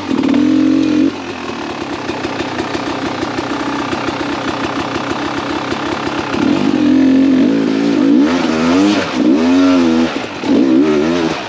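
Two-stroke single-cylinder engine of a 2017 Beta 300RR enduro motorcycle under way. It eases off about a second in, then is revved up and down repeatedly in the second half.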